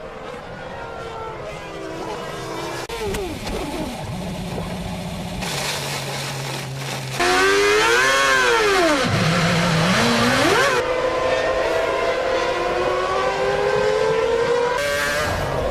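Formula 1 cars' 2.4-litre V8 engines at high revs, pitch rising and falling through gear changes and braking. About seven seconds in it turns suddenly louder, and one engine's pitch arches up, drops steeply, then climbs again.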